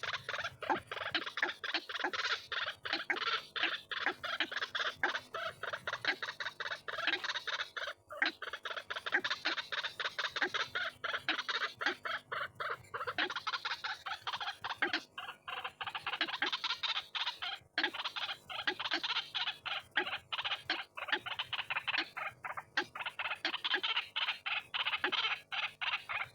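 White-breasted waterhen (ruak-ruak) calling: harsh, croaking notes repeated rapidly and without pause, with a lower note sounding about twice a second.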